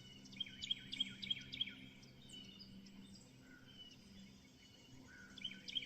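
A bird calling: a quick series of four or five chirping notes, each sliding down, repeated near the end, over a faint steady low hum.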